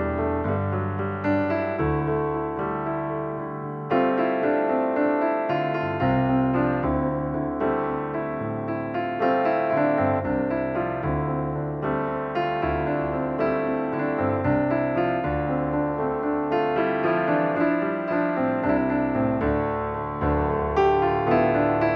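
Background piano music: a steady stream of gentle piano notes and chords.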